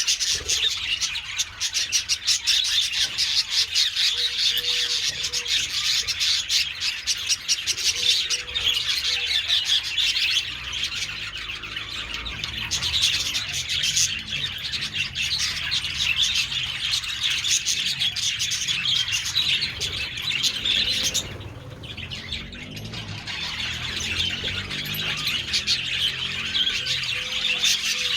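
A colony of budgerigars chattering: many birds warbling and chirping at once in a dense, continuous chorus, which thins out briefly about two-thirds of the way through.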